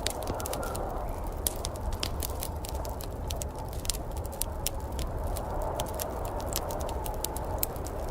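Wood fire crackling in a fireplace, with frequent sharp irregular pops over a steady low rumble and hiss.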